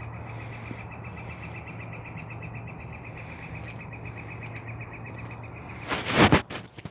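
An animal's steady, rapid pulsed trill over a low steady hum; the trill stops near the end as a loud, brief burst of noise, the loudest sound, cuts in.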